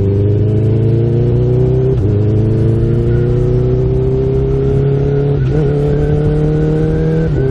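Honda CB1000R's inline-four engine pulling hard at around 3,000–4,000 rpm through an aftermarket Akrapovič exhaust, its note climbing steadily. Three clutchless quickshifter upshifts come about 2, 5.5 and 7.4 seconds in, each a brief dip in the engine note before it climbs again.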